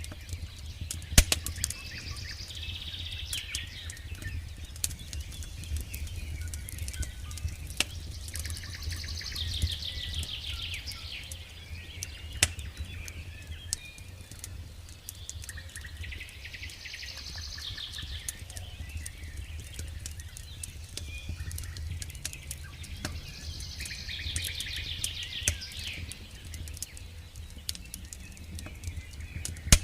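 Campfire crackling with frequent sharp pops over a low steady rumble, while a songbird sings a rapid trilling phrase four times, about every seven seconds.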